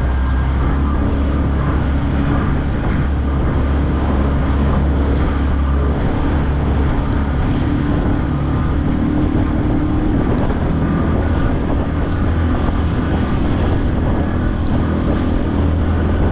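A skiff's motor running steadily underway, with wind buffeting the microphone and water rushing past the hull.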